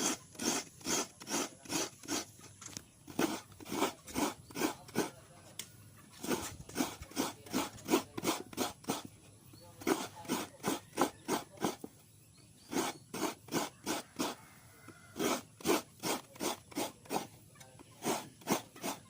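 Coconut being grated by hand, the flesh scraped against a serrated grater in quick rasping strokes, about three a second, in runs with a few short pauses.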